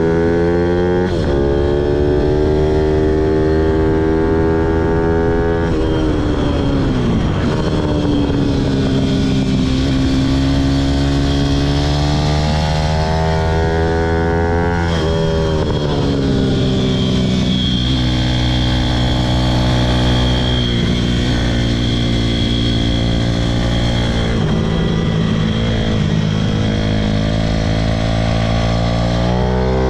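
Pit bike's small single-cylinder engine revving hard on a track lap. Its pitch climbs in several sweeps and drops back between them as the rider shifts and slows.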